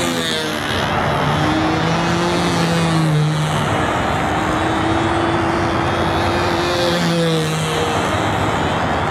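Control-line model airplane's small glow-fuel engine running steadily as the plane circles, its pitch swinging up and down about every four seconds as it passes on each lap.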